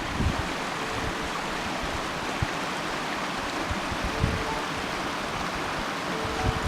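Steady rush of open running water, with scattered low thumps.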